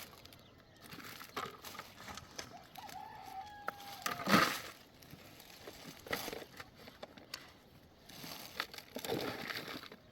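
Chickens calling, with a rooster's drawn-out crow about three seconds in, among a few sharp knocks; the loudest knock comes just after the crow.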